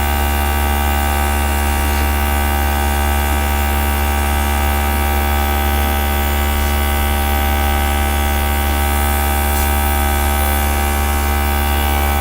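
Small electric air gun motor running steadily, a constant low hum with many overtones.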